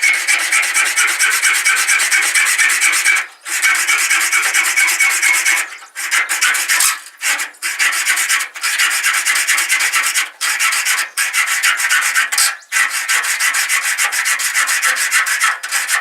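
Hacksaw cutting through steel key stock: a loud, continuous rasping of blade strokes, broken by a few short pauses.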